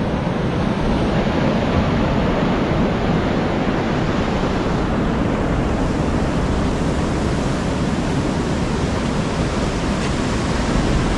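Steady rushing noise of ocean surf mixed with wind on the microphone.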